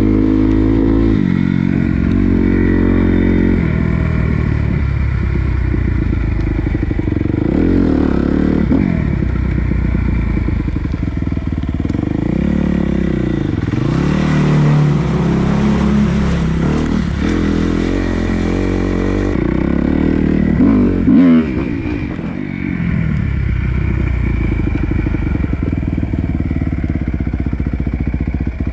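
Dirt bike engine under load, stepping up through the gears near the start, then revving up and down again and again.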